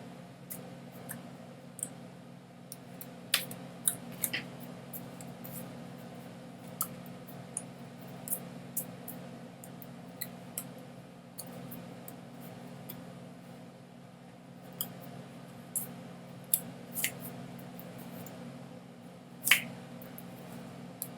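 Irregular sharp clicks and taps, a dozen or more, scattered over a steady low electrical hum, the loudest click near the end.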